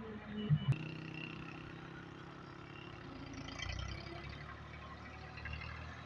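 Tractor's diesel engine running steadily, after a few heavy knocks and a sharp click in the first second.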